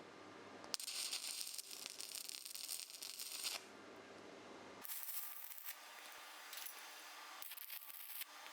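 Stick arc welding, the arc crackling and hissing in several bursts with abrupt starts and stops; the first begins with a sharp click less than a second in.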